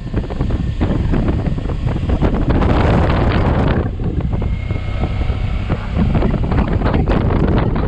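Heavy wind buffeting on the microphone of a riding motorcycle, with the bike's engine and road noise underneath; the buffeting eases for a couple of seconds mid-way.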